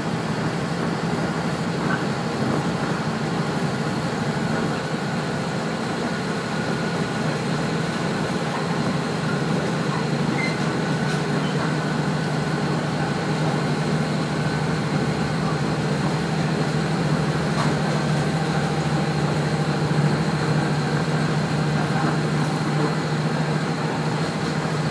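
Cabin sound of a Kashima Rinkai Railway 6000 series diesel railcar under way: a steady low engine drone over the wheels' running noise on the rails.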